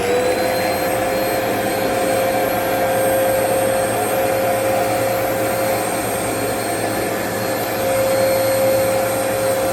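Vacmaster UC0101 bagless upright vacuum cleaner switched on, its motor spinning up in the first half second and then running with a steady whine.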